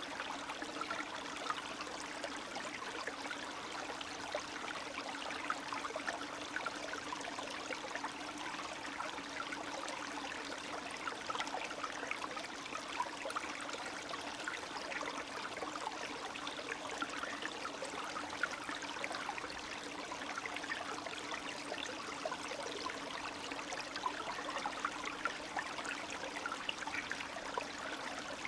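A small spring stream trickling and babbling over stones, steady throughout with many small splashes and gurgles.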